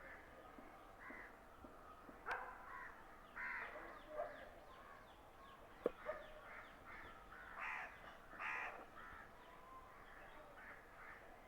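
Crows cawing: a few short, harsh caws scattered through, with a sharp click about halfway.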